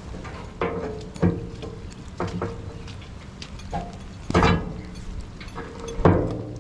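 Heavy metal-on-metal clanks with a short ringing tail, about six irregularly spaced strikes, as a steel bar works the hinge pins out of a wood grinder's lid. Under them a heavy equipment engine idles steadily.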